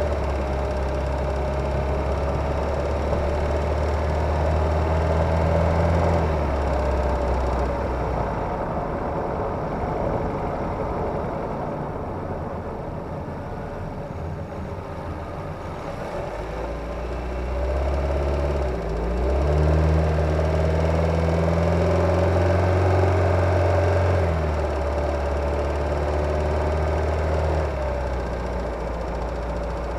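Kia Ceed's G4FG 1.6-litre four-cylinder petrol engine running, heard from under the bonnet, its note falling and then rising again as the car is driven. This is the engine that knocks under acceleration when cold, a knock that fades once it has warmed up.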